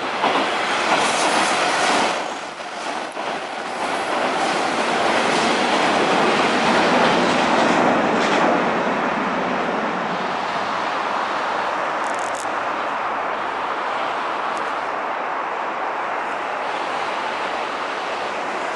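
Electric passenger trains running along an elevated line: a steady rumble of wheels on rail with clicking from the rail joints. There is a brief high squeak about twelve seconds in.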